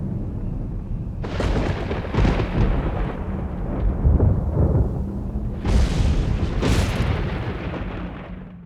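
Designed fight sound effects: a deep continuous rumble over a low hum, with four big noisy surges like blasts about a second in, two seconds in, and twice more near six and seven seconds. It fades down and cuts off at the end.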